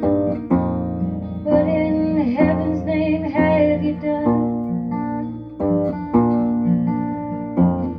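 Plucked acoustic strings, including an octave ukulele tuned like a bass guitar (EADG), playing a folk song. A woman sings a line from about a second and a half in to about four seconds in.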